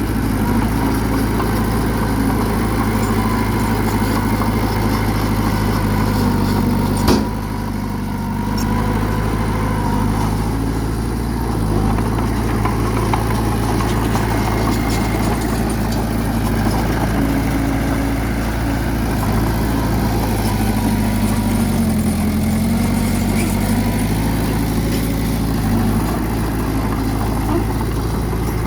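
Bulldozer's diesel engine running steadily, its pitch shifting a few times as the load changes, with one sharp metallic knock about seven seconds in.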